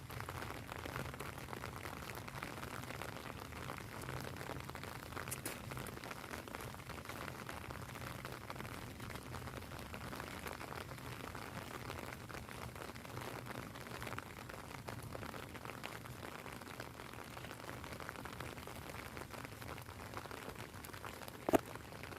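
Steady rain falling on an umbrella, a dense even patter of drops. A single sharp knock stands out about a second before the end.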